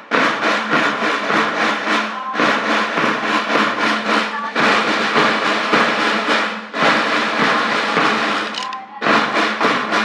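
A school band's drum section playing fast snare-drum rolls and rhythmic patterns, in phrases of about two seconds with brief gaps between them.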